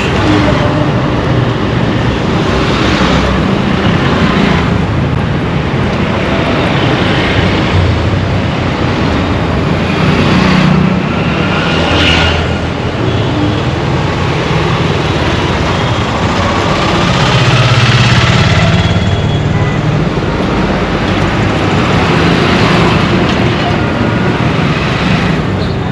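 Busy road traffic: a dense, continuous mix of engines and tyre noise from cars and motorcycles, swelling louder a couple of times as vehicles pass close.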